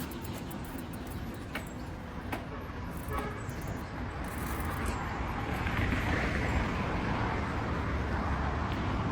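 Road traffic noise, a steady rumble that grows gradually louder after about five seconds as a vehicle goes by, with a few faint clicks.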